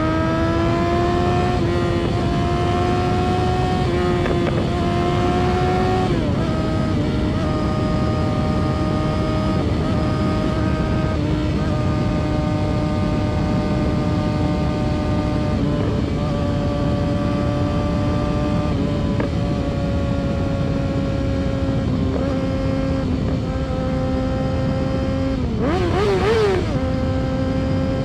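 Yamaha R6 inline-four engine running under way at high revs, over a steady rush of road noise. The engine note climbs for the first few seconds and drops suddenly about six seconds in. It then holds nearly steady, sagging slowly, until a brief quick rise and fall of the revs near the end.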